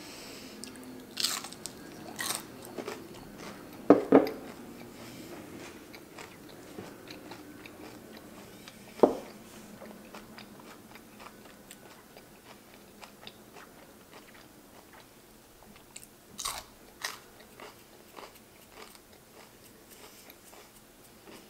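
Close-miked chewing of fried onion rings: soft wet mouth sounds broken by a few sharp crunches and smacks, the loudest about four seconds in, others near one, two, nine and sixteen seconds.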